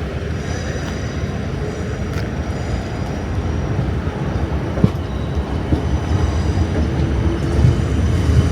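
An electric train running on the rails: a steady low rumble that grows louder toward the end, with a single click about five seconds in and a faint high whine.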